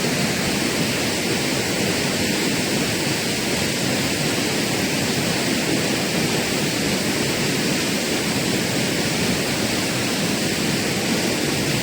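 Steady rush of fast water pouring over rocks in a jungle river.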